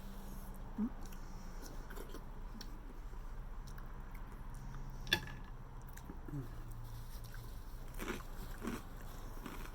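A person chewing and biting food, with soft wet crunching over a low steady hum, and a single sharp click about halfway through.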